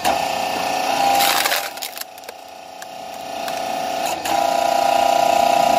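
380-volt electric hydraulic log splitter working a thick log: its pump gives a steady whine that drops off and then comes back loud. About a second in, a burst of cracking and splintering as the wood splits apart.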